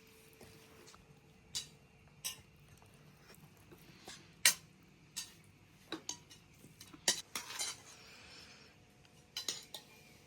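Cutlery clinking and scraping against plates and dishes during a meal: scattered, irregular clinks, the sharpest about four and a half seconds in, with a quick run of them around seven to eight seconds.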